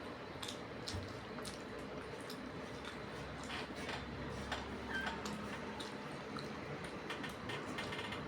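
Close-up eating sounds: scattered small clicks and wet squishes of someone eating rice with fish curry, over a steady low background noise.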